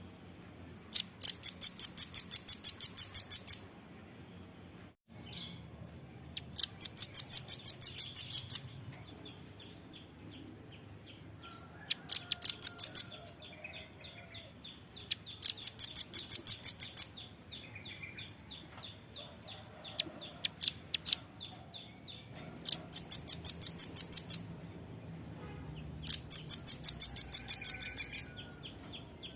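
Velvet-fronted nuthatch (red-billed rambatan) calling: about seven quick rattling series of sharp, very high notes, each lasting a second or two and running about five notes a second, with fainter ticking chatter between them.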